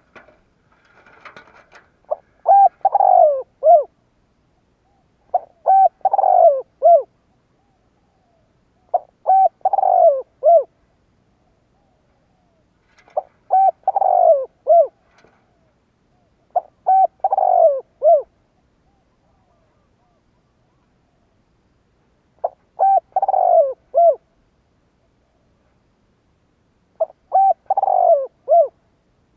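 Spotted dove cooing its song: seven phrases, each a few short notes running into a longer coo that falls in pitch, with a short note at the end, repeated every few seconds.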